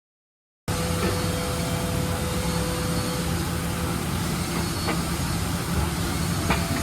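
Kan KH-6 CNC deburring and washing machine running with a steady mechanical drone and hum, cutting in abruptly after a brief silence, with a few faint clicks.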